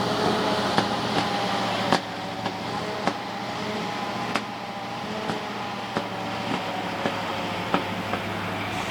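ZIL-137B truck's V8 petrol engine running steadily, a low hum with a wavering whine, with scattered sharp clicks and knocks.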